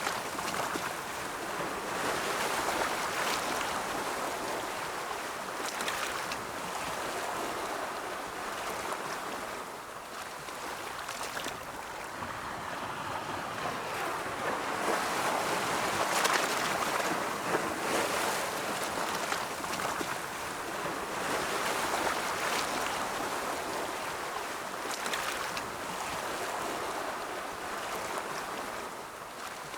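Ocean waves washing onto a shore in slow swells, a continuous rushing surf that rises and falls every few seconds, with brief hissing crests.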